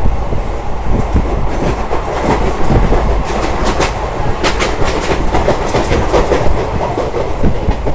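A moving passenger train running along the track: a steady low rumble with a quick, uneven run of clattering clicks from the wheels over rail joints through the middle of the stretch.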